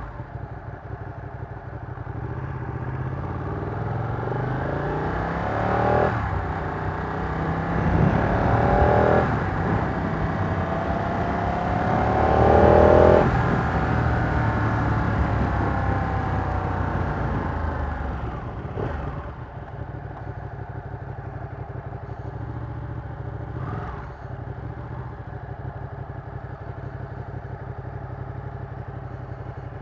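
Ducati Panigale 959's Superquadro L-twin engine accelerating through three upshifts, its pitch climbing and then dropping at each change. About 18 seconds in it eases off and runs on steadily and more quietly, as at idle or low speed.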